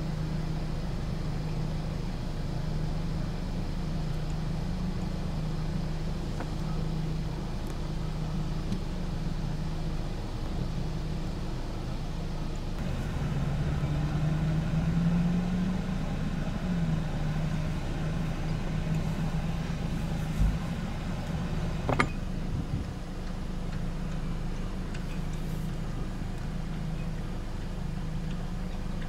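A vehicle engine running steadily with a low hum. A low thump about twenty seconds in is followed a moment later by a brief sharp sound.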